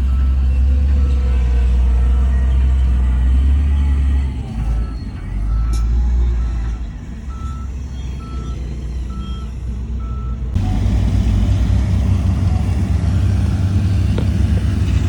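Heavy diesel earthmoving machine running with its reversing alarm beeping about once a second. About ten seconds in the beeping stops at an abrupt change to a louder, deeper engine rumble.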